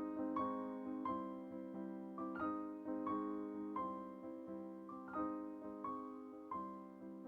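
Background music: a soft solo piano melody, notes struck one after another and left to ring and fade.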